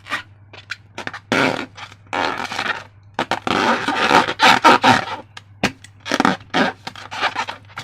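Slime being squeezed and worked by hand: wet squelching and crackling in irregular bursts, some short and sharp, some drawn out.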